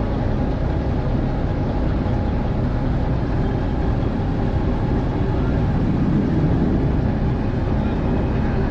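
Steady low rumble of vehicle noise, unchanging throughout.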